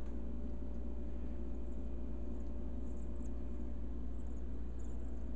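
A steady low hum and rumble, with a few faint short high chirps about three and five seconds in.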